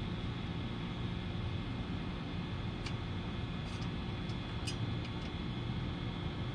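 Steady low mechanical hum, with a few light clicks about three to five seconds in.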